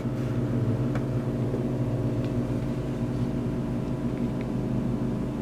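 Steady low background hum with a few constant tones, like a running motor or appliance in the room, with a faint click about a second in.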